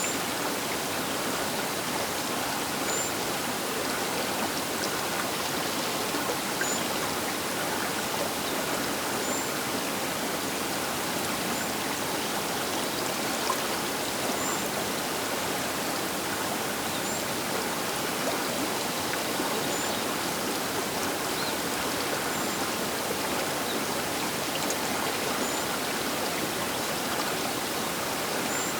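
Baker River flowing: a steady, even sound of running water.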